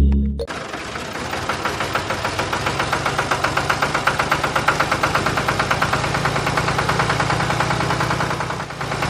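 An engine running with a rapid, even knocking beat, cutting in suddenly about half a second in.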